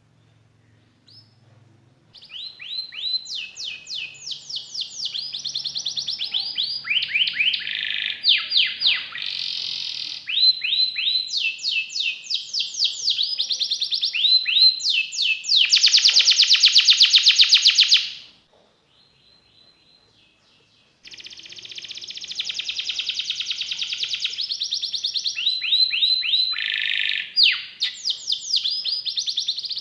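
Domestic canary singing: phrases of rapidly repeated falling notes, one running into the next, with a loud, very fast rolling trill about halfway through, a pause of about three seconds, then the song starting again.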